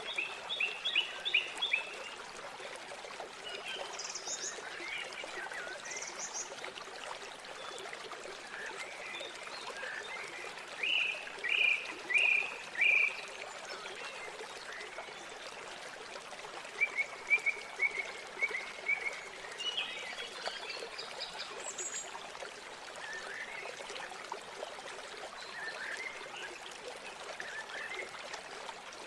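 River water flowing steadily, with small birds chirping over it in short runs of quick notes. The loudest is a series of about four sharp chirps a little before halfway, followed later by a brief trill.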